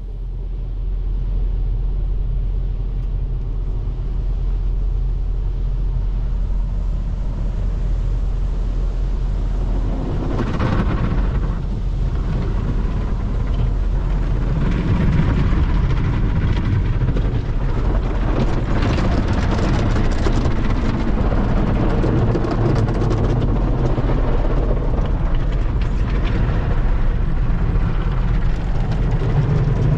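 Automatic tunnel car wash machinery, heard from inside the car: a steady low rumble that starts suddenly, joined about ten seconds in by a louder, hissing wash of noise that carries on.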